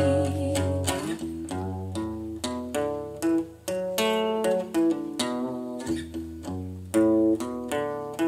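Acoustic guitar played by picking single notes, a steady run of plucked notes between sung lines of a song.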